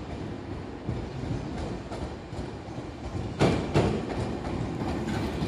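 Tokyu 5050-series (4000 subseries) electric train running past with a steady low rumble, then its wheels clacking over rail joints in quick pairs from about three and a half seconds in.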